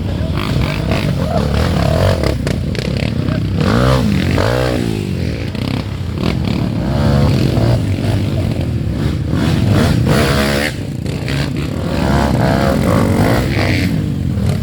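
Off-road dirt bike engines revving hard, their pitch rising and falling again and again.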